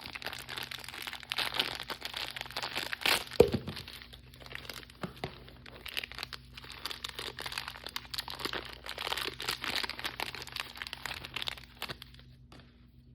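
Plastic blind-bag packaging crinkling and tearing as it is opened by hand, with one sharp, loud snap about three and a half seconds in. The crinkling stops near the end.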